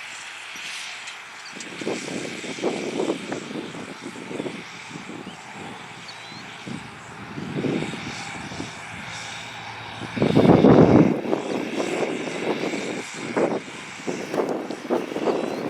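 John Deere 8300 tractor's six-cylinder diesel engine running steadily under load while cultivating, with uneven gusts over the microphone. The strongest gust comes about ten seconds in.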